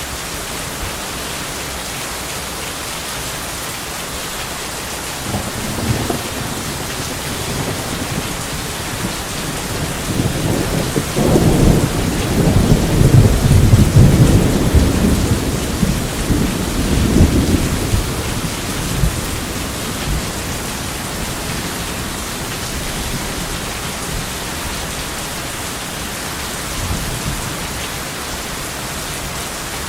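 Steady heavy rain with a long roll of thunder that builds from about five seconds in, peaks around the middle and rumbles away, followed by a faint second rumble near the end.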